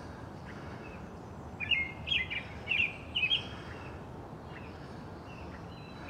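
A songbird chirping: a quick run of short, sliding high notes starting about a second and a half in and lasting about two seconds, over a steady low background rumble.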